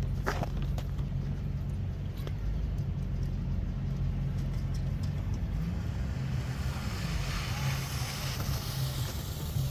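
A car passing on a snowy street, its tyre hiss swelling over the last few seconds, over a steady low rumble.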